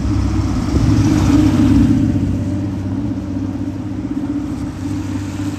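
A car engine running close by, with a swell of engine and tyre noise about a second in as the vehicle passes, then easing off.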